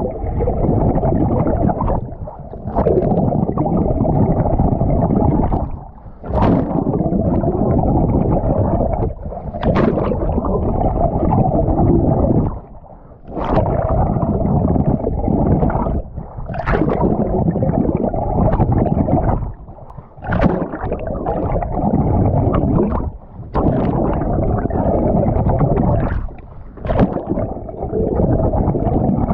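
Muffled churning and gurgling of water against a swimmer's camera during an open-water swim, broken by a short splashy break about every three seconds in time with the strokes.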